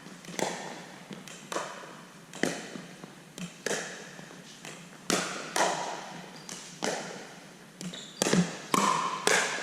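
Pickleball rally: paddles striking the plastic ball and the ball bouncing on the court, sharp pocks roughly once a second, each with a short echo.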